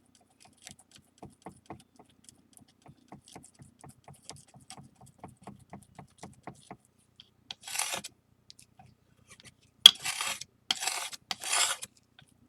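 Flour paste and base lacquer being mixed on a tray: a run of light, quick taps and clicks from the mixing tool, then four short scrapes against the tray near the end.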